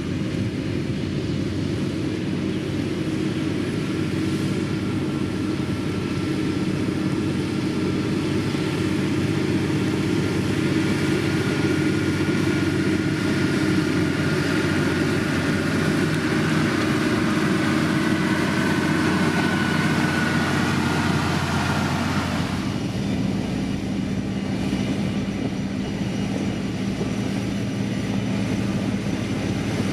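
Diesel engine of a heavy road-construction machine running steadily, with a faint whine above it. About two-thirds of the way through, the higher rush and whine cut off suddenly, leaving a lower steady engine hum.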